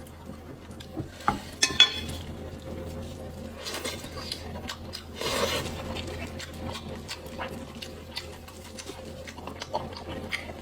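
Close-miked eating sounds from a pig's head mukbang: chewing and mouth clicks, with a sharp clatter of dishes about two seconds in and a rustling noise around the middle.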